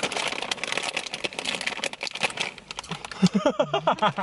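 Several people crunching crispy snack chips together, a dense run of crackly bites and some bag crinkling. Brief vocal sounds come in near the end.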